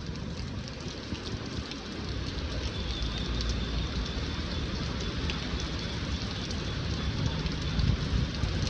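Steady rain falling, with many small drops ticking close by, over the low rumble of passing traffic, which grows a little louder near the end.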